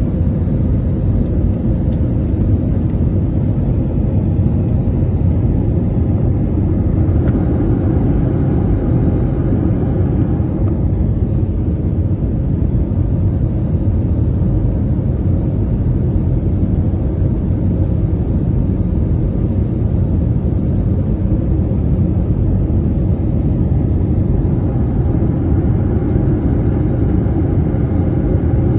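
Passenger airliner's engines and airflow, heard from inside the cabin during landing: a loud, steady rumble with a faint steady hum above it.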